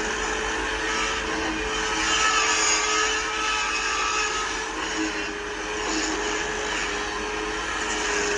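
Steady machine noise with one constant hum, swelling a little in its higher part every few seconds.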